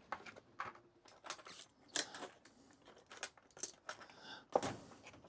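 Irregular small clicks, taps and light scrapes of a measuring tool and small parts being handled on a workbench, about a dozen separate clicks in all.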